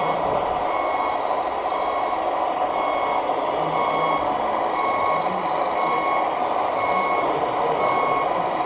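Truck reversing beeper, a steady two-tone beep repeating about once a second, over a continuous background din; most likely played through the RC truck's sound module speaker.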